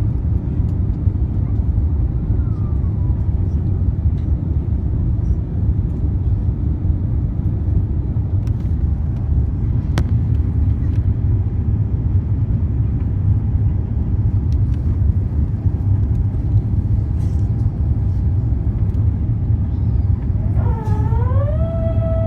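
Steady low rumble of cabin noise inside an Airbus A350-900 in flight, from its engines and the airflow. There is a single click about halfway through. Near the end a pitched tone with overtones swoops down, rises and holds steady.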